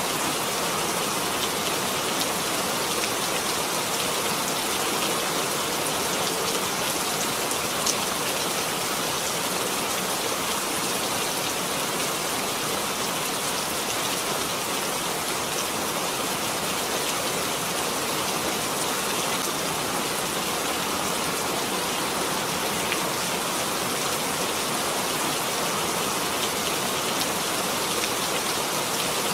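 Steady rain falling, an even hiss with now and then a louder drop tick.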